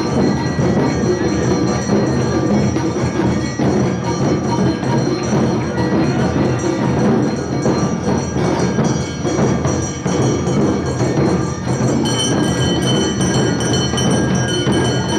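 Live Awa-odori festival music from a narimono band: drums and a clanging kane bell keep up a steady beat, with ringing high tones over them.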